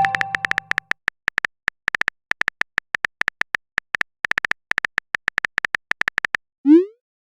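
Phone-keyboard typing clicks, a rapid uneven stream of taps, after the fading tail of a chat-notification chime. Near the end, a short rising 'bloop' of a message being sent.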